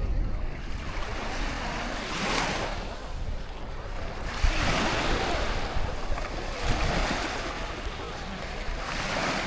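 Sea waves washing onto the shore, the hiss swelling and fading about every two seconds, with wind rumbling on the microphone.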